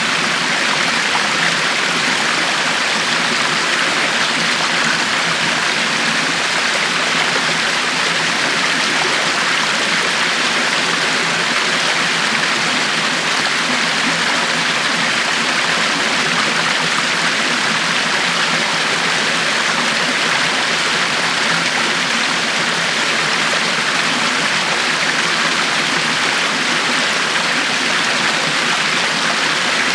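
River water flowing steadily over rocks, an even, unbroken rushing.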